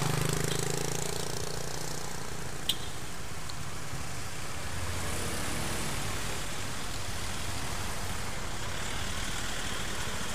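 A motor vehicle's engine running steadily under road noise, with one sharp click a little under a third of the way in.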